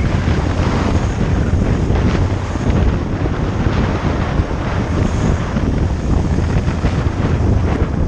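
Heavy wind buffeting on the microphone of a moving motorcycle, a loud, steady rush strongest in the low end that masks the engine.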